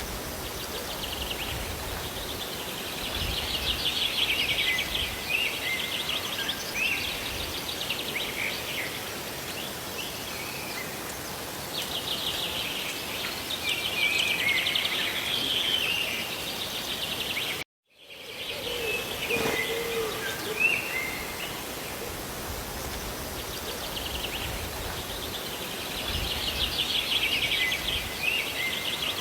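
Steady rush of rain and falling water, with songbirds chirping and singing quick trills in three spells. The sound cuts out completely for a split second about two-thirds of the way through.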